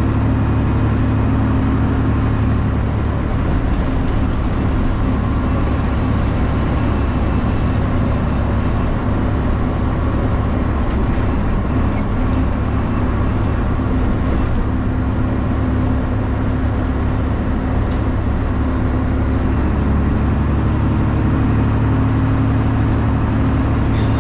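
Straight-piped Detroit Diesel 12.7 L Series 60 inline-six in a Freightliner truck, running under way and loud inside the cab. Its exhaust note eases off a few seconds in and comes back up strongly near the end. The exhaust has broken at the 90-degree elbow behind the cab, which the driver gives as the reason it is so loud in the cab.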